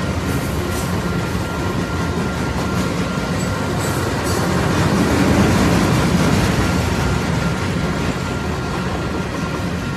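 Freight train of loaded flatcars rolling past: steel wheels on the rails give a steady rumble and clatter that swells a little around the middle.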